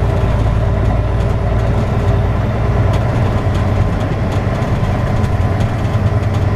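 Semi truck's diesel engine running steadily at low speed, heard from inside the cab as a continuous low drone.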